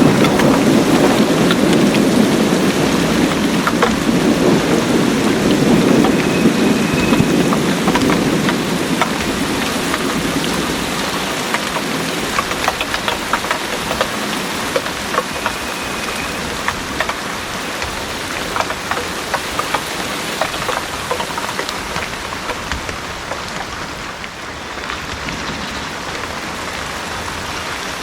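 Heavy rain pouring onto surfaces, with a steady hiss and many close drip ticks. A low rumble of thunder dies away over the first several seconds.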